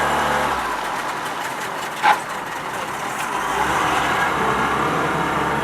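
Motor of a tour boat running steadily under way. It grows a little louder after a few seconds, and a brief higher-pitched blip comes about two seconds in.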